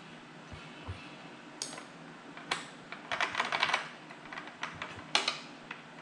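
Scattered light clicks and rattles, with a quick cluster in the middle, from a cordless rear-handle circular saw and its blade wrench being handled.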